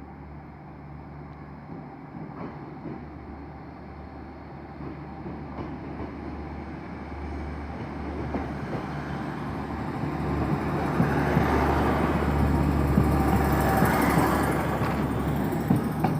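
Class 150 Sprinter diesel multiple unit pulling out under power, its diesel engines a steady low hum that grows louder as it draws near, loudest in the last few seconds as it passes close by.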